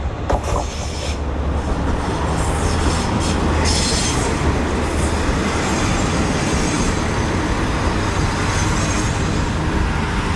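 Yufuin no Mori diesel sightseeing train running on the rails: a steady low rumble that builds over the first couple of seconds, with high-pitched hissing from the wheels about three to five seconds in.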